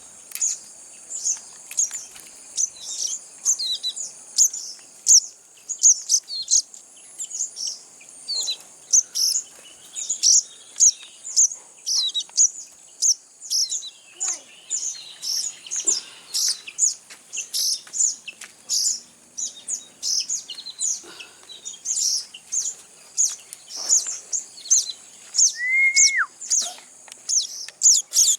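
Young sogon birds chirping, sharp high calls one or two a second, over a steady high-pitched insect trill, with one lower whistle near the end.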